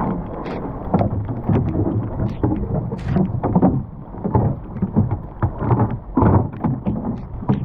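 Wind rumbling on the microphone, with irregular knocks and clatter on a small sailing dinghy as its oars are taken in and stowed.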